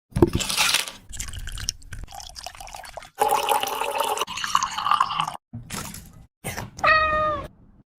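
Quick-cut food-preparation sounds: liquid pouring, splashing and dripping in short segments that start and stop abruptly. A short pitched call comes near the end.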